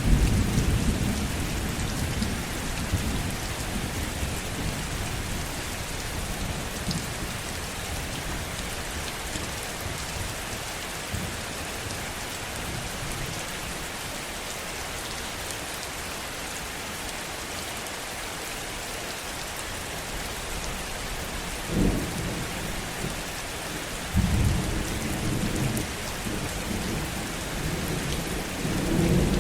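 Heavy rain falling steadily, with low rolls of thunder: one dying away in the first few seconds, a short rumble about 22 seconds in, and another rolling from about 24 seconds and again near the end.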